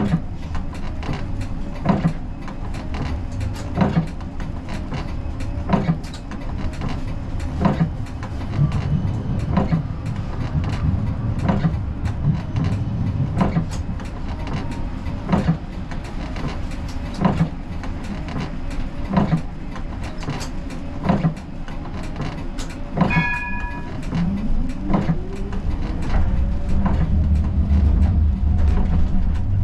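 Siemens Combino tram standing with a steady low hum and a sharp click about every two seconds. About 23 seconds in there is a short beep. Then the electric traction motors start a rising whine and the rumble grows as the tram pulls away.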